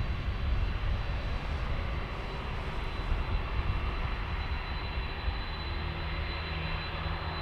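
Jet airliner engines running with a steady rumble and a thin, high, steady whine.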